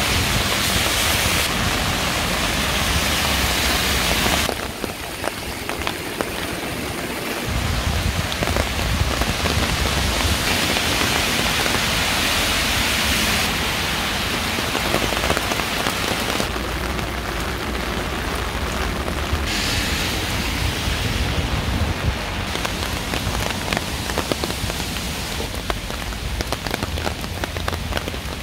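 Steady rain falling, a dense hiss with the close patter of individual drops. The character of the rain sound changes abruptly several times.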